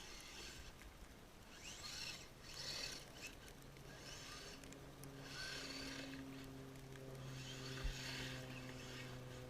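Snow crunching and hissing in four short bursts about two seconds apart. From about three and a half seconds in, a steady low engine hum joins and holds.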